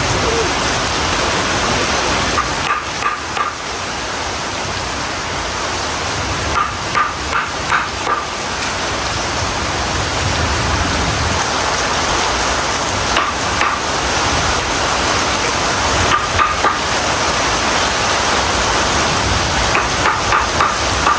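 Heavy rain pouring steadily, with groups of three or four sharp knocks every few seconds.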